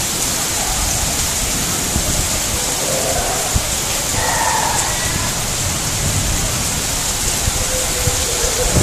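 Torrential cloudburst: heavy rain pouring steadily onto flooded pavement, a dense even hiss.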